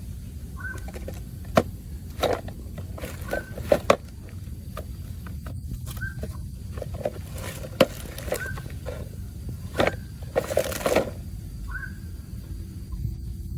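Scattered clicks and knocks over a low steady hum, with a scrape about ten and a half seconds in and a short high chirp repeating every couple of seconds.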